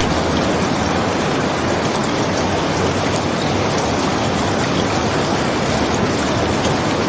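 Steady rain falling: a constant, even hiss with faint scattered ticks.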